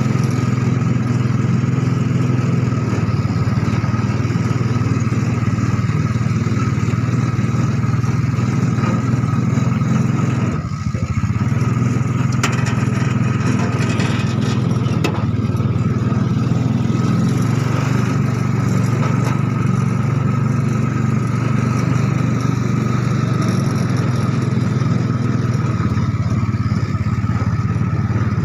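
Three-wheeler motorcycle engine of a homemade mini Jeep running steadily while the Jeep is driven. It briefly drops off about eleven seconds in, then picks up again.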